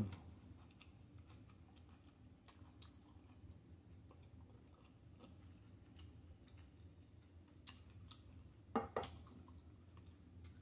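Faint close-up chewing of a hard-shell taco, with scattered soft mouth clicks and smacks. A short, louder mouth sound comes near the end.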